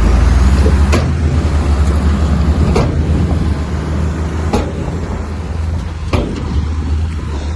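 Komatsu bulldozer's diesel engine running heavily, louder in the first second and easing a little after. Four sharp clanks come at roughly even spacing through it.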